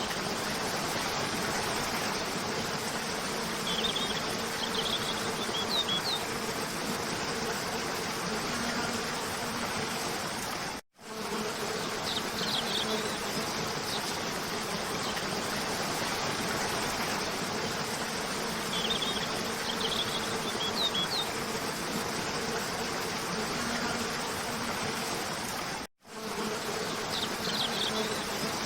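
Steady rush of a cascading waterfall with a low buzzing hum under it, and short high bird chirps in small groups every several seconds. The sound drops out for an instant twice, about eleven seconds in and near the end, where the recording loops.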